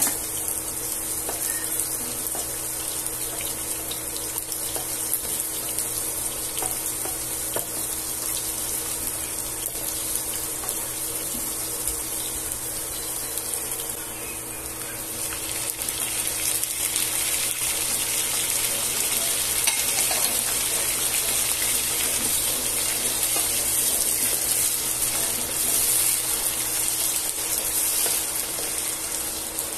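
Garlic, ginger and onions sizzling in hot oil in a nonstick frying pan, a steady hiss that grows louder about halfway through. A spatula stirs the pan near the end.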